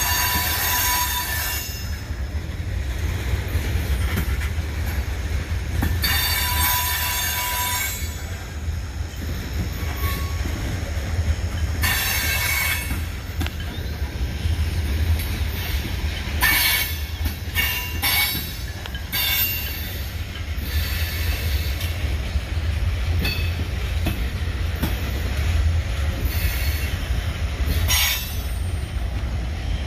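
Freight train rolling past with a steady low rumble, its wheel flanges squealing against the rails in repeated high-pitched bursts.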